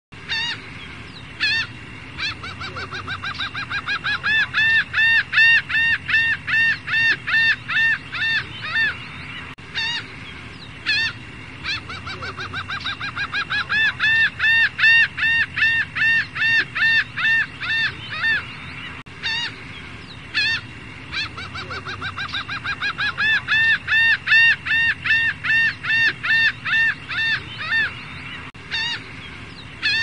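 Bird calls: two single arched calls, then a long series of arched calls that starts quick and soft and grows louder, about three calls a second at its peak. The same sequence repeats three times.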